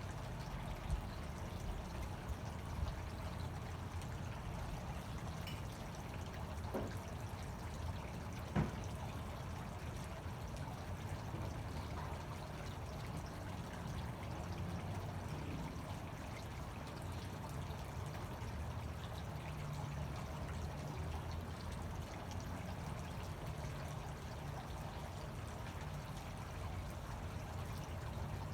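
Fountain water pouring and splashing steadily, with a brief sharp knock about eight and a half seconds in.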